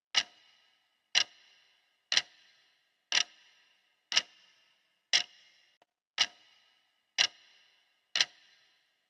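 Clock ticking steadily, one sharp tick each second with a short ring after each.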